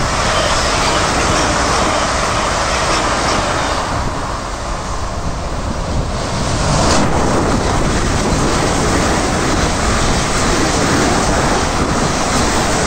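A train passing close by: a loud, continuous rumble and rush of wheels on the rails, with one sharp knock about seven seconds in.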